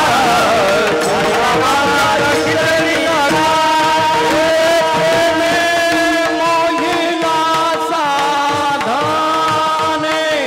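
Devotional kirtan music: a singer holding long notes that glide and bend in pitch, over a steady drone.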